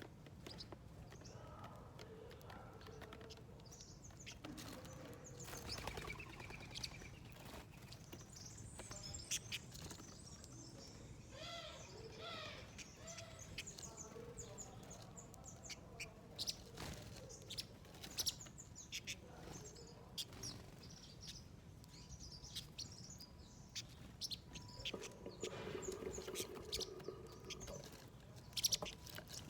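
Small wild birds chirping and calling in short notes, with a quick run of chirps about halfway through, among scattered wing flaps and sharp taps and clicks at a feeder.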